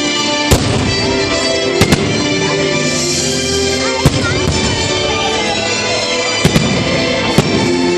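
Firework bangs, about seven sharp reports, some in quick pairs, over steady music.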